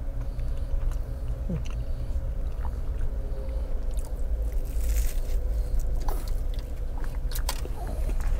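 A person biting into and chewing flaky apple pie, the crisp pastry crunching now and then, loudest around the middle and near the end, over a low steady hum.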